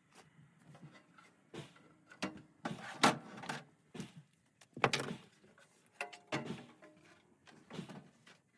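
Irregular knocks and clunks of parts being handled inside a gas furnace cabinet during teardown, the loudest about three and five seconds in.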